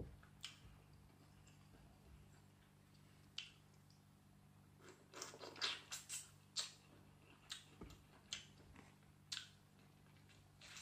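Faint close-up eating sounds: wet mouth clicks and smacks as boiled cauliflower and then a tiger prawn are chewed, clustered about five to six and a half seconds in, with a few sharper smacks after. A faint low hum runs underneath.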